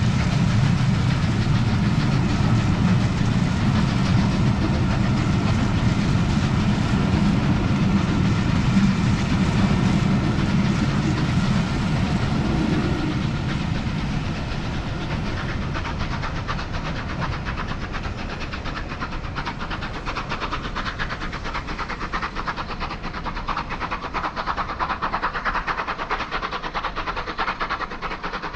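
Passenger coaches of a steam-hauled train running past, a steady low rumble of wheels on rails that fades gradually from about halfway through as the train draws away.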